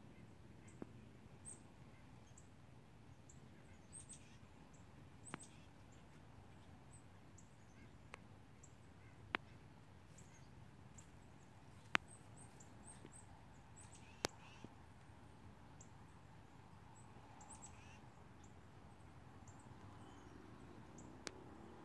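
Quiet woods with many short, thin, very high calls of small birds scattered through, and several sharp clicks or snaps, the loudest about twelve seconds in.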